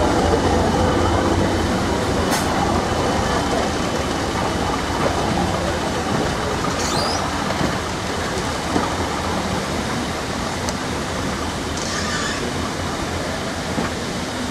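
Coaches of a Hastings Class 202 diesel-electric multiple unit rolling past: a steady rumble of wheels on rails that eases slightly as the train moves on, with a few sharp clicks and a short squeal about two thirds of the way through.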